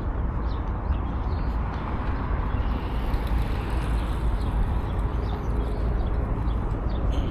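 A steady low rumble of outdoor background noise, with a few faint short bird chirps over it.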